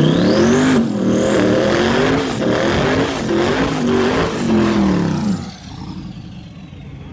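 Twin-turbo Dodge Demon V8 at high revs under hard acceleration, its pitch surging up and down several times, with high rising whines over it. After about five seconds the sound falls away and fades.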